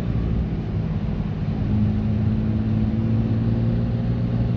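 BMW F80 M3's twin-turbo straight-six running at a steady, light cruise through its catless, open-valved exhaust, a steady drone that rises slightly in pitch about a second and a half in.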